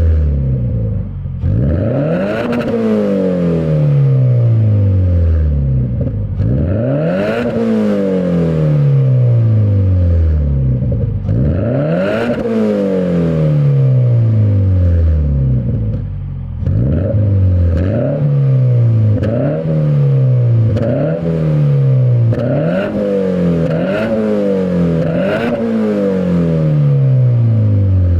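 Toyota 86's flat-four engine free-revving in neutral through a GP Sports EXAS EVO Tune aftermarket exhaust: three long revs, each rising quickly and falling back slowly, then a run of about seven shorter, quicker throttle blips.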